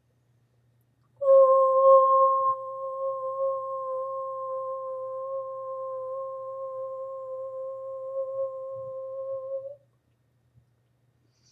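A woman toning: one steady hummed note held for about eight and a half seconds, loudest in its first second, then stopping.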